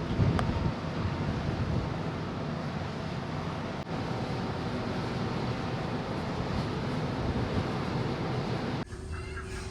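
Steady rush of wind and a low rumble aboard a moving car ferry. Near the end it cuts abruptly to a quieter steady hum.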